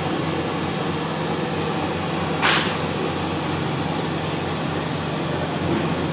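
A machine running with a steady fan-like noise and low hum, with a short burst of hiss about two and a half seconds in.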